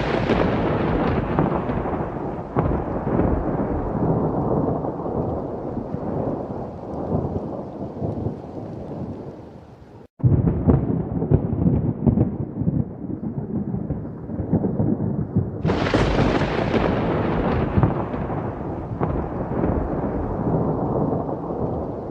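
Thunderstorm: rolling thunder that starts loud and fades over about ten seconds, breaks off abruptly, then rumbles again with a second sharp crack about sixteen seconds in that fades in turn.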